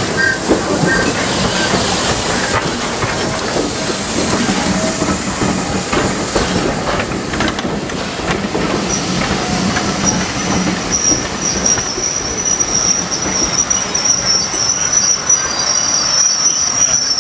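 Steam-hauled train of vintage compartment coaches rolling past along a station platform, the wheels clicking and knocking over the track. A steady high-pitched squeal from the wheels sets in about nine seconds in and continues.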